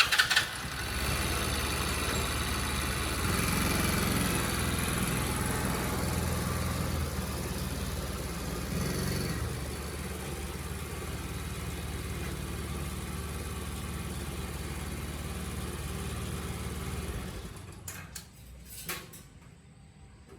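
A motorcycle engine starts with a loud burst, runs steadily for about seventeen seconds, then stops, followed by a couple of faint clicks.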